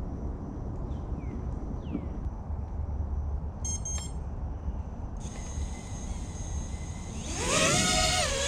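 FPV quadcopter's brushless motors: a steady high whine starts abruptly about five seconds in as they spin at idle, then the pitch climbs sharply and gets louder as the throttle comes up near the end. Low wind rumble on the microphone runs underneath.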